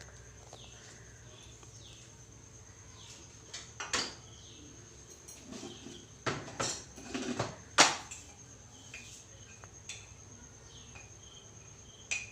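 Chicken pakora mixture being mixed in a bowl, with scattered knocks and clinks against the bowl, the loudest about eight seconds in. A steady high insect trill runs underneath.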